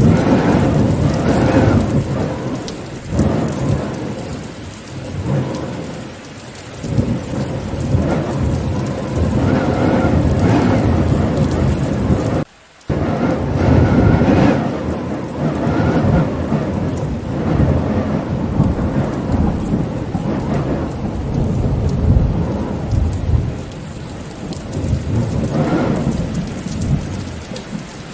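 Heavy, steady rain with repeated low rumbling swells every few seconds. The sound cuts out briefly about halfway through, then resumes.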